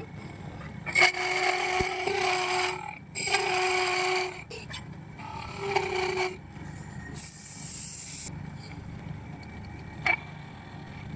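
Woodturning on a lathe: a tool scraping and cutting the spinning wood in four bursts, each a second or two long, with a steady hum under them. A short, sharp hiss comes about seven seconds in.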